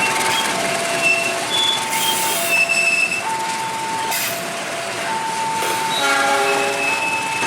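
Railway level-crossing alarm sounding its warning as two alternating tones, a higher and a lower one, each held for about a second, while a container freight train's wagons roll past with rumbling and short high wheel squeals. A brief chord-like blast sounds about six seconds in.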